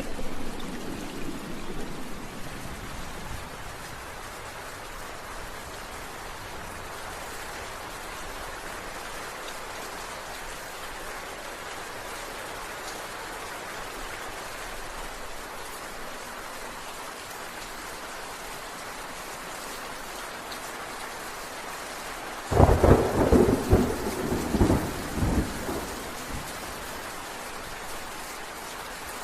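Steady rain falling, with a low thunder rumble dying away over the first few seconds. A sudden loud thunderclap comes about 22 seconds in and rumbles for a few seconds before fading back to the rain.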